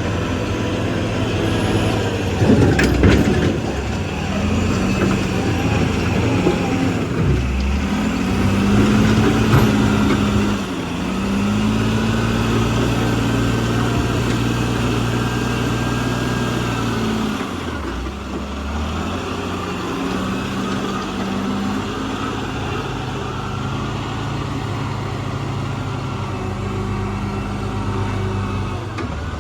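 Heavy diesel engine of earthmoving machinery revving up and down repeatedly as it works, with a loud clatter about three seconds in.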